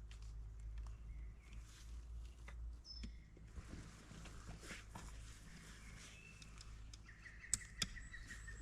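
Small clicks and knocks of camping gear being handled, with two sharp clicks near the end, over a low steady hum and a faint high tone.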